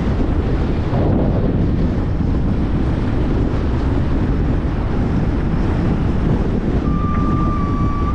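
Strong wind buffeting the camera microphone through its wind guard: a loud, steady, low rumbling rush. A short steady high tone sounds near the end.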